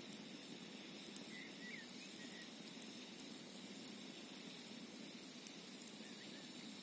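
Campfire burning with a few faint, sparse crackles over a steady rushing hiss of a gently flowing mountain stream. A few faint short chirps come a little after a second in and again near the end.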